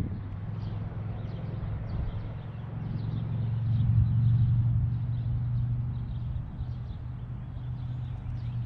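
A steady low motor hum that swells about four seconds in and then eases, with faint bird chirps above it.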